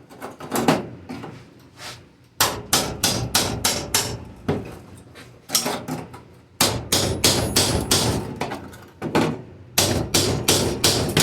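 Hammer striking the sheet-metal floor of a 1980 Jeep CJ7, in quick blows about three a second. The blows come in several runs separated by short pauses.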